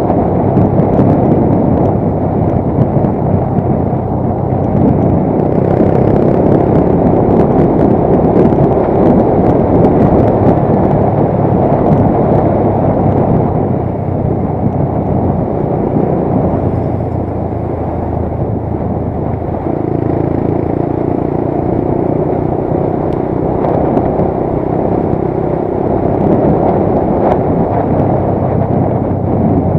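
Motorcycle riding along a road, its engine running under a loud steady rush of road and wind noise. The engine note eases off in the middle and picks up again about twenty seconds in.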